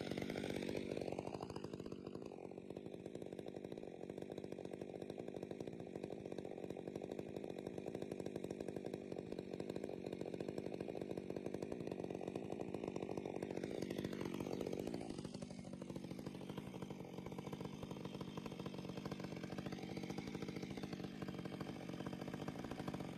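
Chainsaw engine running at high revs throughout, its pitch shifting briefly about a second in and again about fifteen seconds in.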